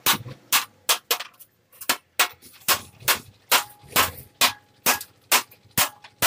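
Repeated hammer blows on metal, about two or three strikes a second, with a faint ring between some of them.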